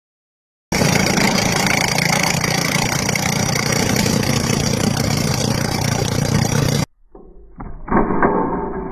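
A loud, steady machine running, starting suddenly under a second in and cutting off abruptly about seven seconds in. It is followed by quieter, muffled knocks.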